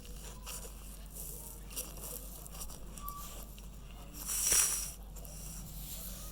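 Rustling and light scraping in a small bird crate, with scattered faint clicks and one louder rustle about four and a half seconds in.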